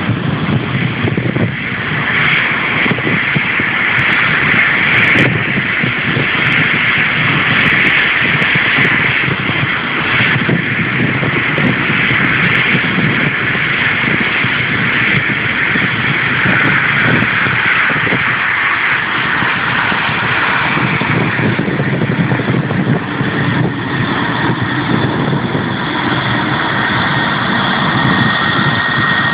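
Interjet airliner's jet engines running at high power during takeoff: a loud, steady roar, with a high whine coming in near the end.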